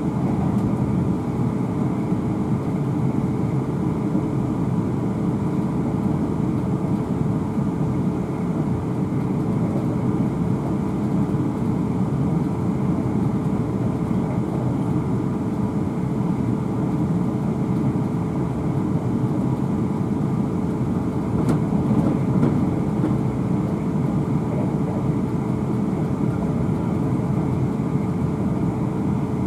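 Running noise heard inside the cabin of a British Rail Class 450 electric multiple unit at speed: a steady rumble of wheels on rail with a constant hum, and a single click about two-thirds of the way through.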